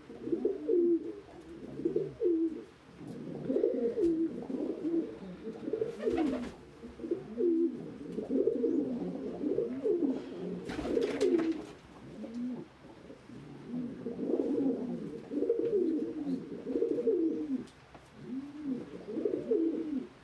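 Domestic pigeons cooing, several birds overlapping in repeated low, rising-and-falling coos. Two short rustles come about six and eleven seconds in.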